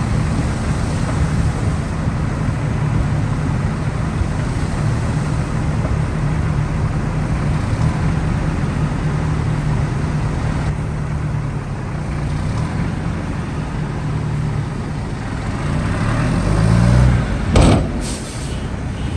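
Heavy diesel construction machinery running steadily under load, its engine pitch climbing about three-quarters of the way through. Near the end come a sharp clunk and a short hiss.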